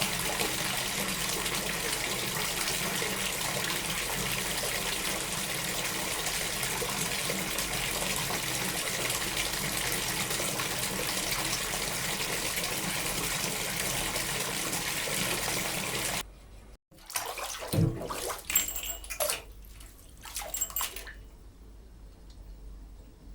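Water running steadily, like a tap or bath filling, then cutting off sharply. A few separate knocks and clicks follow.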